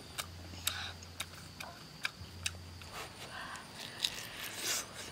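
Close-up eating sounds: a person chewing roasted chicken thigh, with sharp wet smacking clicks of lips and mouth at irregular intervals and short breaths in between.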